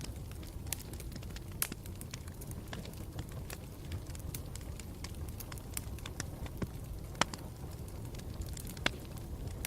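Campfire burning with a steady low rumble and irregular sharp crackles and pops of burning wood, a few louder snaps among them.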